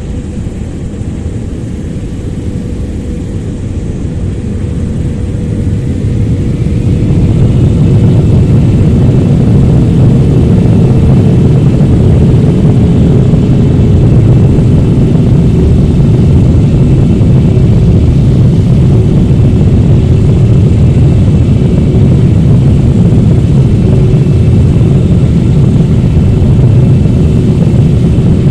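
Twin GE90-115B jet engines of a Boeing 777-300ER spooling up to take-off thrust. A low rumble grows much louder over the first several seconds as a whine rises in pitch, then holds as a steady, loud rumble.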